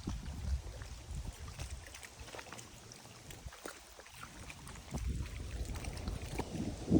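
Wind rumbling on the microphone, with faint water lapping and small ticks.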